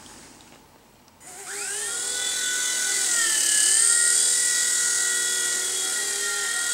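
V911 micro RC helicopter's small electric motors spinning up about a second in with a fast-rising whine, then holding a steady high-pitched whine with rotor hiss. The pitch dips briefly and recovers around the middle as the throttle changes.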